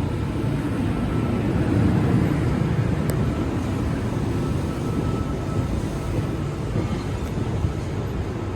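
A Sydney Trains electric suburban train pulls away from the platform: a steady, heavy rumble with a faint high whine that fades out about six seconds in.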